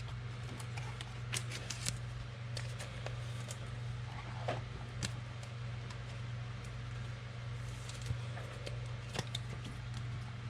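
Trading cards being handled and sorted by hand: quiet sliding with scattered short clicks.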